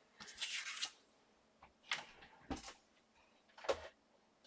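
Handling sounds of a Sizzix Big Shot die-cutting machine and its platform being set out on a desk: a brief rustling scrape, then a few sharp knocks of plastic parts being put down.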